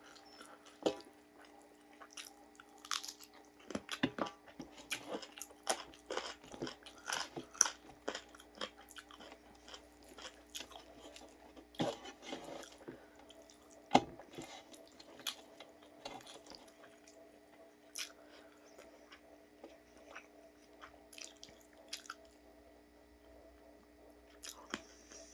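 Close mouth sounds of someone eating chilli chicken: irregular crunchy bites and wet chewing, with sharper crunches at intervals.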